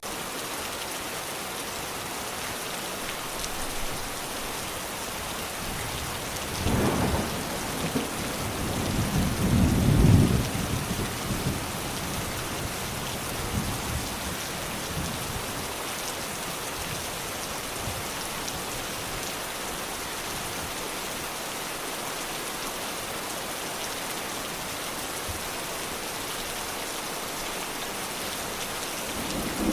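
Steady heavy rain falling, with low rolls of thunder rumbling about seven seconds in and again, loudest, around ten seconds in.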